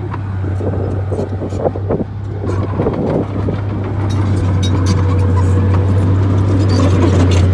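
Crawler bulldozer's diesel engine running steadily under load, with repeated metallic clanking and knocking from the machine as it works; it grows a little louder about halfway through.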